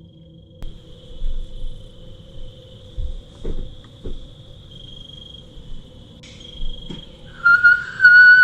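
Crickets trilling steadily in the night woods, with a few soft knocks from handling. Near the end comes one long, steady, fairly loud whistle, the loudest sound here.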